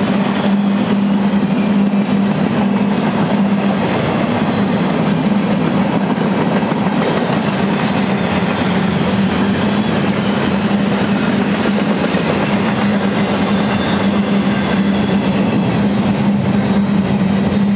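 Empty freight well cars rolling past on the rails: a steady noise of wheels on track with a constant low hum.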